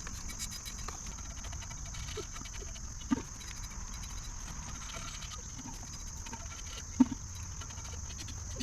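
Steady high-pitched chirring of insects, with a light patter of fine ticks and two sharper knocks about three and seven seconds in.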